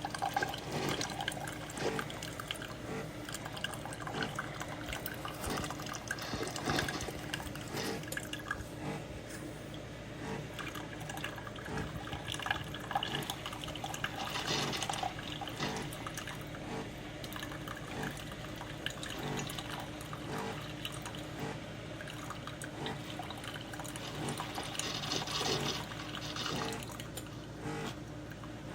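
SiFENE single-serve coffee maker brewing: liquid streaming and dripping into the cup over a steady hum.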